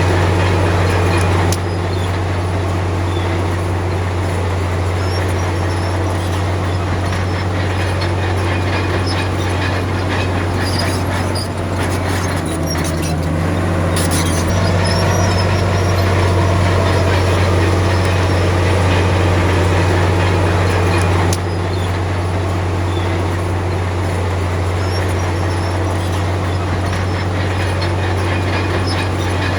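Heavy earthmoving machinery's diesel engine running steadily with a deep, continuous drone, with a few brief knocks; the level drops abruptly twice.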